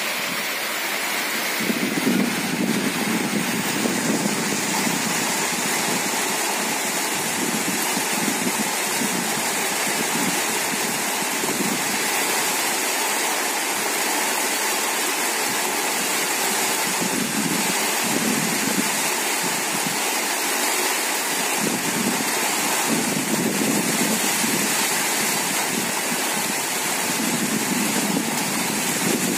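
Steady rain falling on an open umbrella, a continuous, even patter.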